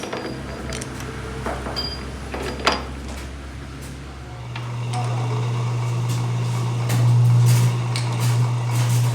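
Workshop machinery: a few scattered metallic knocks over a low hum, then about four seconds in a machine starts a steady low hum that grows louder and runs on.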